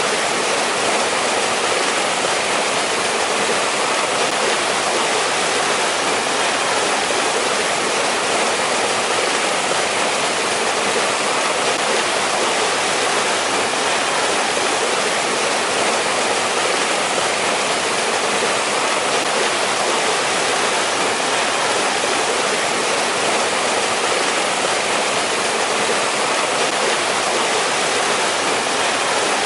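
Valley stream water rushing and splashing in a steady, even wash, with no change or pause.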